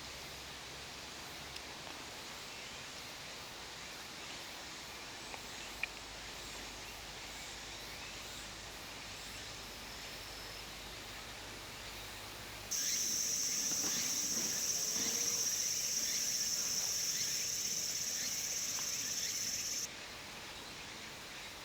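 Quiet rural outdoor ambience with a few faint insect chirps. About thirteen seconds in, a loud, high-pitched, steady insect buzz starts abruptly, holds for about seven seconds, then stops just as suddenly.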